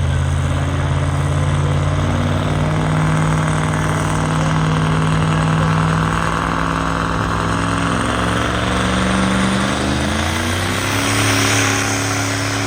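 Engine of a pulling vehicle running steadily, its pitch rising about ten seconds in and dropping back near the end.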